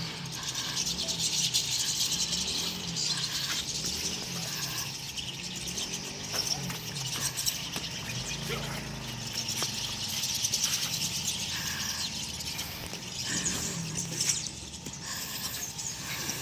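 A large flock of birds chattering, with many short calls overlapping into a continuous high twittering din and a low murmur underneath.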